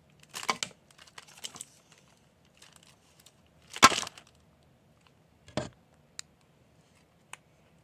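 Folded paper dragon puppet crinkling and crunching in short bursts as its paper jaws are worked, loudest about four seconds in, with a few light taps near the end.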